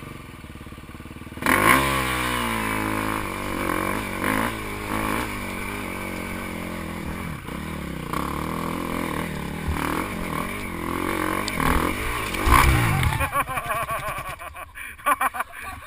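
Dirt bike engine starting suddenly about a second in and revving up, then running with uneven rises and falls in speed. Another rev comes near the end before it dies away.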